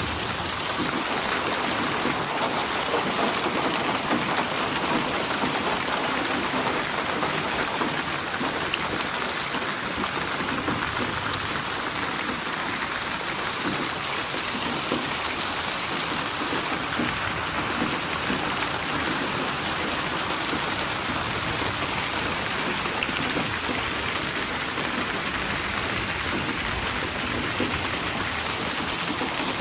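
Steady rain falling, an even hiss with scattered drop ticks and no change in strength.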